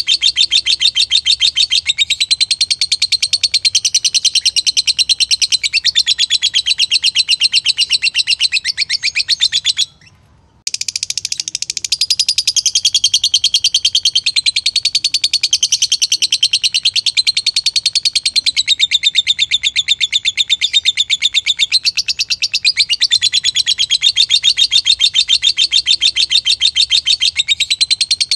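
Green lovebird singing a long, unbroken chatter of very rapid high notes, the violin-like 'biola' song type. It cuts off for about half a second about ten seconds in, then runs on.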